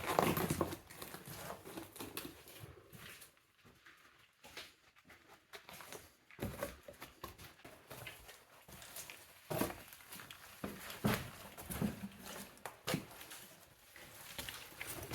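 Irregular footsteps crunching and scuffing on a rocky mine floor, with a quieter pause about three to six seconds in.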